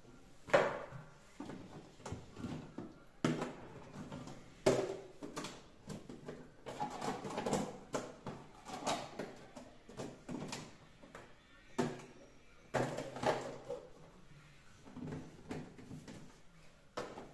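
Items and containers being taken out of a switched-off fridge: irregular knocks, clatters and rustles, with a sharp knock about half a second in.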